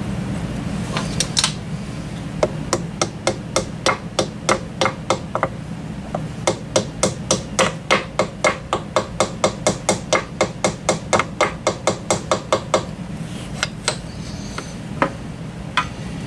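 Rapid light hammer taps, about three a second with a short break partway through, seating a pin in a Kawasaki Mule 2510/3010 transmission's shifter.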